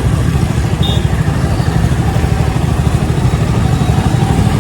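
Yamaha FZ motorcycle's single-cylinder engine running steadily while riding, with wind rush and traffic noise. A brief high beep sounds about a second in.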